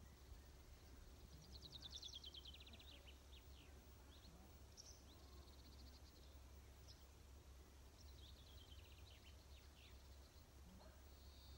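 Faint birdsong: a songbird sings a fast run of short notes falling in pitch, twice, about six seconds apart, with a few scattered single notes, over a low steady outdoor rumble.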